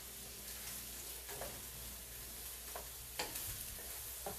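Onions and mixed vegetables sizzling in a frying pan as a wooden spatula stirs them, with a few light taps of the spatula against the pan.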